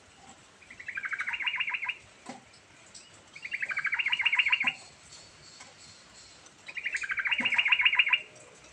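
Yellow-vented bulbul (trucukan) singing: three bubbly phrases of rapid notes, each about a second and a half long and growing louder toward its end, with short pauses between them.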